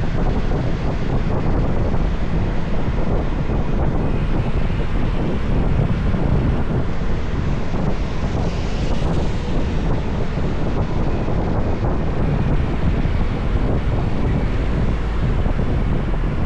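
Steady wind rush buffeting the microphone of a moving motorbike, with road and vehicle noise underneath.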